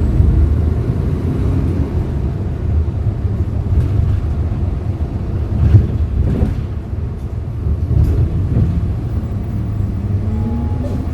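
Hyundai Green City CNG city bus engine running as the bus drives, a steady low rumble whose pitch rises near the end as it pulls away harder, with a few brief knocks or rattles about midway.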